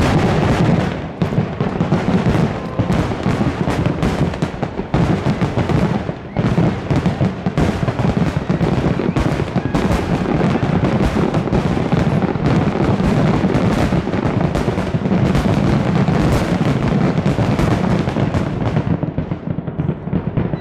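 Loud, continuous barrage of fireworks shells bursting, many bangs a second with their booms overlapping, easing slightly near the end.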